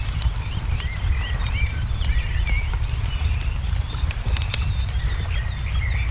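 A wood fire crackling, with sharp pops scattered throughout, under a steady low rumble, while small birds chirp in quick, short rising and falling notes.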